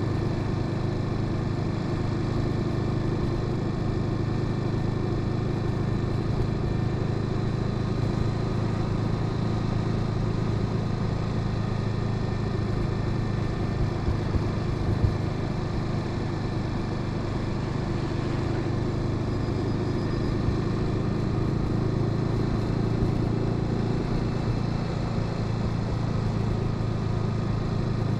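Honda Sahara 300 motorcycle engine running steadily at an even pitch, with no revving.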